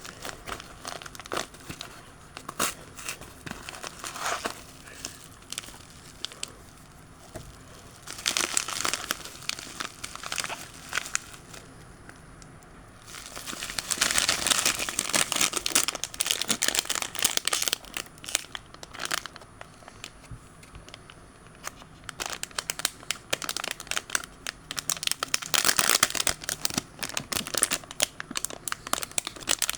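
Toy packaging being handled and torn open, with crinkling and tearing that comes in bursts at first and grows louder and nearly continuous about halfway through.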